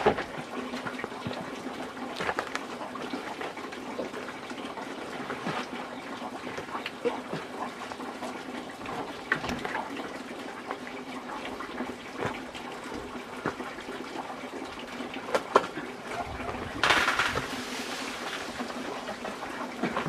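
Water sloshing and pouring, with scattered knocks and clinks throughout and a louder rush of water about seventeen seconds in.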